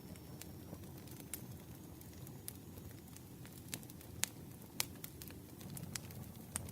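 Campfire crackling: scattered sharp pops and snaps over the low, steady rush of the burning fire.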